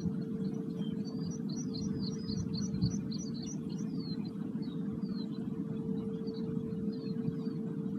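Small birds chirping and singing high over a steady low drone that holds one tone. A quick run of repeated chirps comes about one to four seconds in, then the calls thin out to single sweeping notes.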